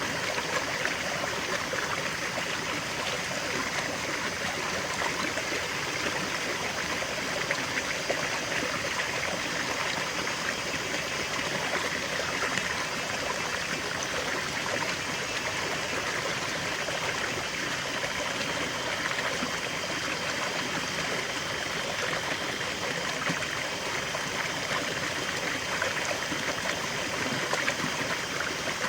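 River water flowing steadily over stones, an even rushing and babbling with small trickles.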